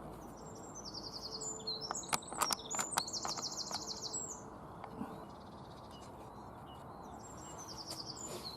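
A songbird singing high, rapid trills in three phrases, over a steady low rush of wind. A few sharp clicks come in the middle.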